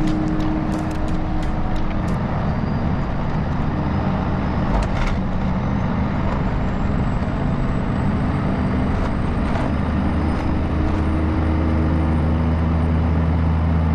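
Heavy truck running on the road, with a steady engine drone and road noise.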